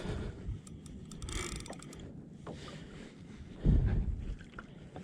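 Wind and water noise on a sea kayak at sea, with a stronger low rumble of wind on the microphone about three and a half seconds in and a few light clicks from a chest-mounted camera mount.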